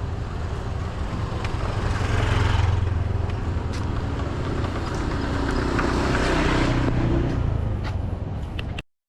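Outdoor rumble with rushing noise that swells and fades twice, then cuts off abruptly near the end.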